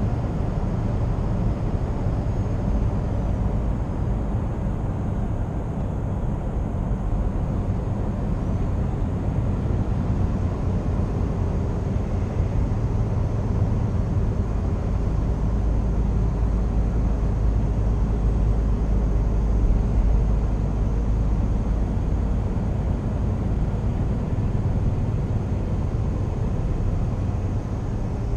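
Scania R490 truck's 13-litre straight-six diesel running steadily on the road, a continuous low drone mixed with road and tyre noise. The low rumble grows a little louder past the middle, then eases back.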